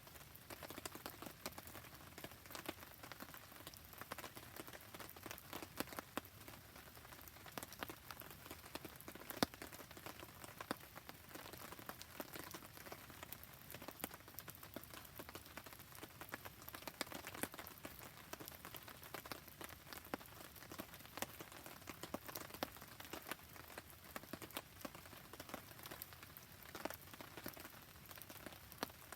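Steady rain falling on a surface, mixed with a wood campfire crackling, heard as a soft hiss dotted with many small sharp ticks and pops throughout.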